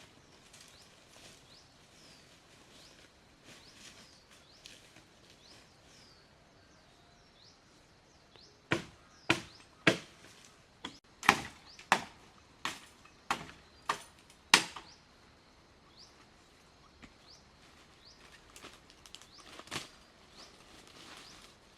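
A run of about ten sharp strikes of a hand tool on wood, roughly two a second, then one more near the end, typical of chopping or hammering during coop building. Small birds chirp faintly before the strikes.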